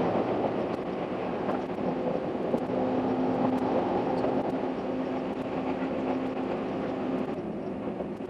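Limited express train running, heard from inside the passenger car: a steady rumble of running noise with a faint, steady hum that eases slightly near the end.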